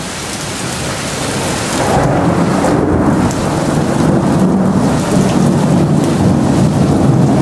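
Heavy thunderstorm rain falling in a steady hiss. About two seconds in, a long roll of thunder builds and rumbles on, close enough that the flash-to-sound delay puts the strike only a couple of miles away.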